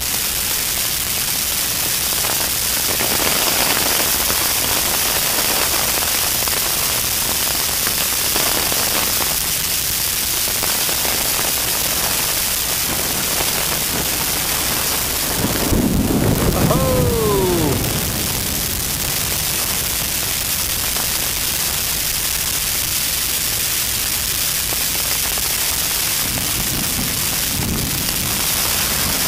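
Heavy rain pouring steadily in a thunderstorm, a continuous hiss. About halfway through, a brief louder stretch carries a falling tone.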